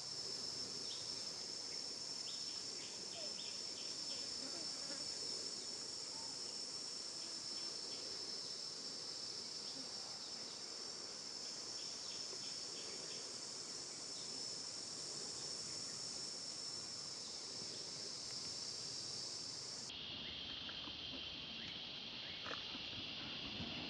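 Steady, high-pitched chorus of insects trilling. About twenty seconds in, it switches abruptly to a lower-pitched insect drone.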